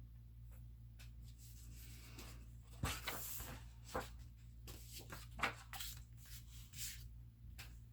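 Paper and cardstock pieces being handled and slid against each other: soft rustling with a few light taps, starting about three seconds in, over a faint steady low hum.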